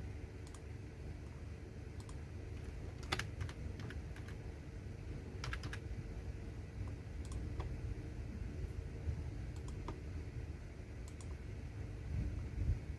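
Computer keyboard being typed on: irregular, unhurried key clicks over a steady low hum, with a few louder low thumps near the end.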